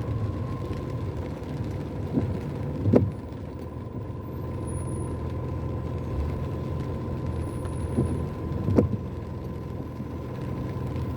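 Steady low rumble of a car in slow traffic, heard from inside, with a faint steady whine throughout. Two pairs of short knocks come about six seconds apart, each pair under a second apart.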